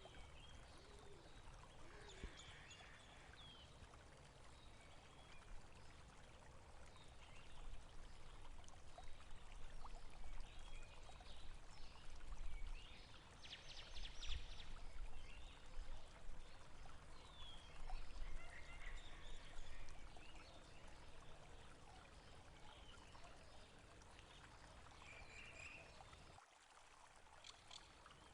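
Water of a stream trickling and running, with small birds chirping now and then over a low rumble.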